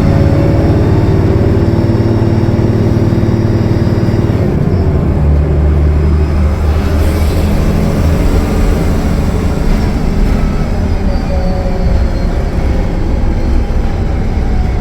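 The Cummins ISL9 diesel engine of a 2015 Gillig Low Floor transit bus running steadily under way. Its note changes about four and a half seconds in, and there is a brief hiss around seven seconds.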